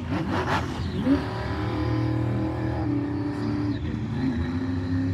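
Monster truck engines revving hard. The pitch climbs about a second in, then holds steady for a couple of seconds.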